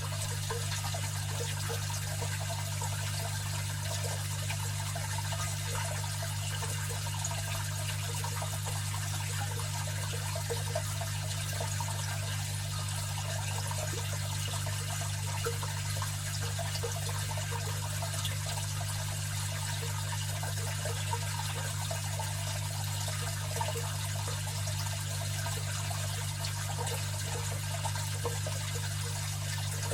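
Aquarium filter running: water splashing and trickling steadily back into the tank, over a steady low hum from the filter motor.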